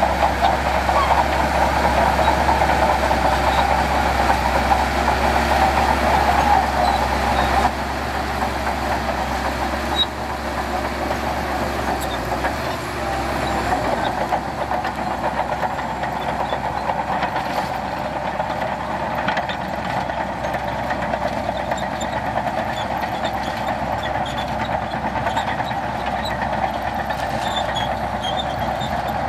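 Heavy diesel earthmoving machinery running steadily; the sound drops a little in level about eight seconds in.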